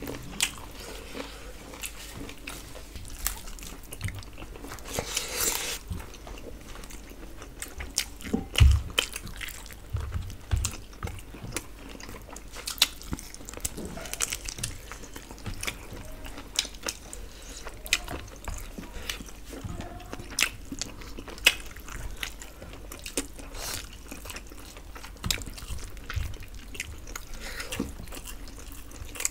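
Close-up eating sounds of two people eating rice and chicken with their hands: wet chewing and lip smacks, with irregular small clicks throughout as fingers work rice and curry on the plates. There is one louder dull knock about nine seconds in.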